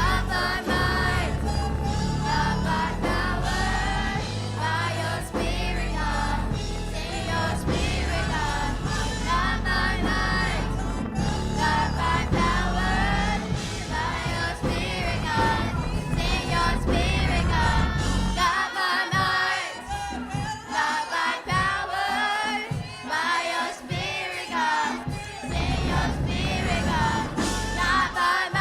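Gospel choir and congregation singing with a band. A little past halfway the heavy bass drops out, leaving the voices over sharp rhythmic hits.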